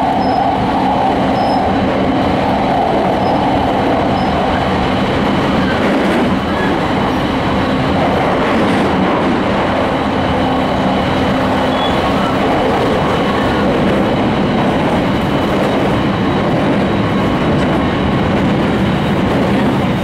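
Interior running noise of a JR East E217 series electric multiple unit cruising at speed, heard from inside a motor car: a steady rumble of wheels on rail with a steady low hum beneath it.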